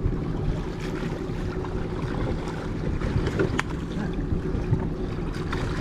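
Boat engine running slowly with a steady hum, along with wind and water noise and a few sharp knocks.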